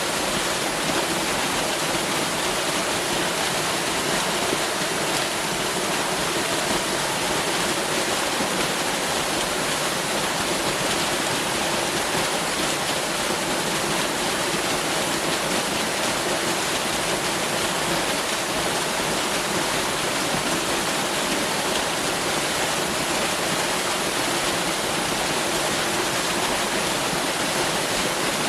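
Waterfall: a steady, unbroken rush of falling water with no breaks or changes.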